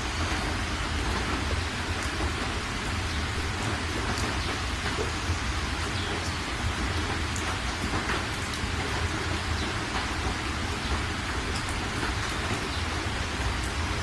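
Heavy rain falling steadily, an even hiss with a constant low rumble underneath and scattered sharp ticks of individual drops.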